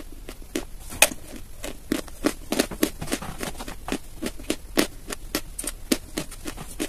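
Close-miked chewing of a mouthful of dry chalk: irregular crisp crunches, several a second.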